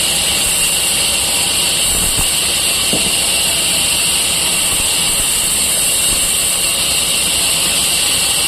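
A machine running steadily: an even, loud whir with a strong hiss and no change in speed.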